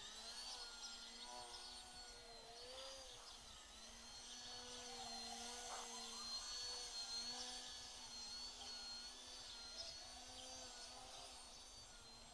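FPV quadcopter's electric motors whining, several tones wavering up and down in pitch together as the throttle changes.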